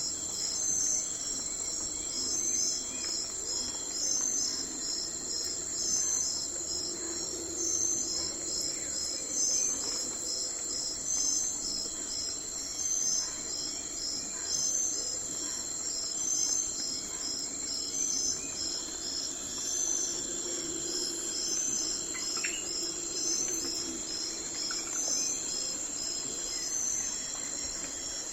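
Night insect chorus of crickets: a steady high trill with regular, repeating pulsed chirps on top. There is a faint, brief higher call about two-thirds of the way through.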